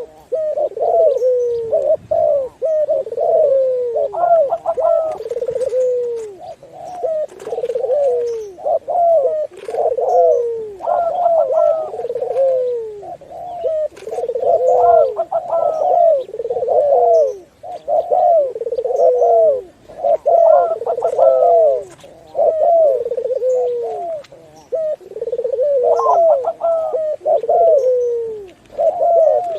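Doves cooing continuously: short coos falling in pitch, repeated in quick succession, with several birds' calls overlapping.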